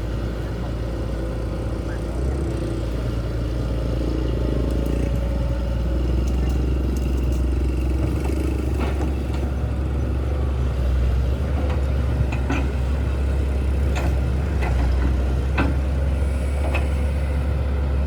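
Steady low engine rumble with scattered sharp clicks and knocks every second or two.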